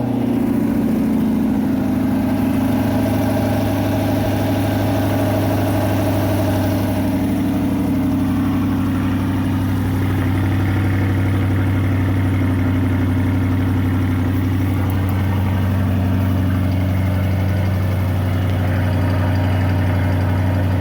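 2020 Chevrolet Corvette Stingray's mid-mounted 6.2-litre V8 idling fast and steady just after starting. This is the raised start-up idle that comes down once the oil pressure comes up.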